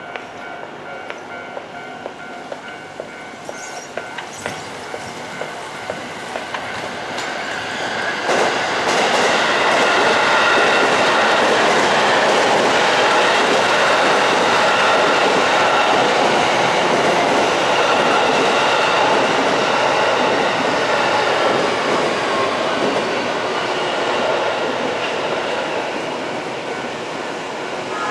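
Japanese level-crossing alarm ringing about twice a second, then a train passing over the crossing. The train is loud from about eight seconds in and eases off after about twenty seconds.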